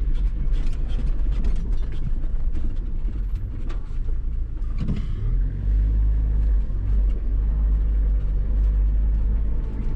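Nissan Terrano 4x4's engine running steadily as it drives an off-road track, heard from inside the cabin, with scattered knocks and rattles in the first half that give way to a smoother, steady engine note.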